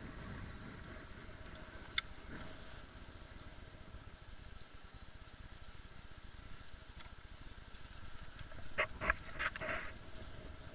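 Motorboat engine running steadily at low speed, with a single sharp click about two seconds in and a quick cluster of short, sharp sounds near the end.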